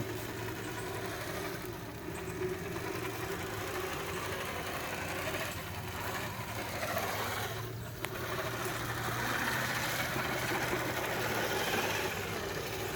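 Traxxas TRX-4 RC crawler's electric motor and geared drivetrain whirring as it drives through mud in high range, the level swelling and easing with the throttle.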